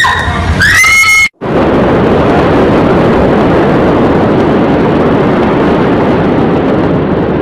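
A high-pitched scream that breaks off about a second in, then a loud, steady roaring noise for the rest: the rumble of the Beirut port explosion's blast.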